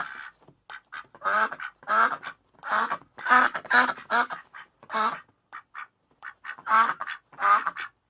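Duck quacking: a run of short calls, about two a second, some loud and some faint.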